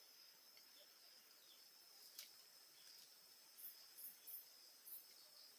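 Near silence with a faint, steady, high insect trill, like a cricket. There is a single click about two seconds in, and a few short, very high chirps in the second half.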